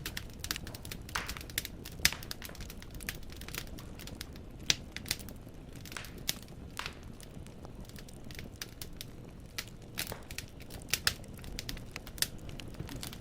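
Wood fire burning in a fireplace: irregular sharp crackles and pops of logs over a low steady rumble of the flames, the loudest pops about two seconds in, near five seconds and near eleven seconds.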